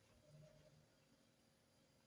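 Near silence: faint room tone, with a brief faint low sound about half a second in.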